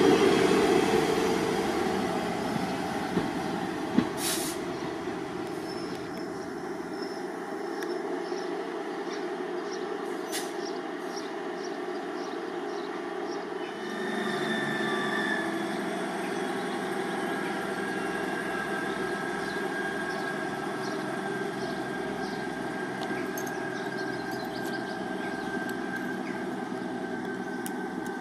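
A ScotRail Class 158 diesel multiple unit running past and pulling away, loudest at the start and fading over the first few seconds. From about halfway, Class 158 unit 158 704 runs slowly into the station with a steady diesel engine note and a thin high squeal as it brakes.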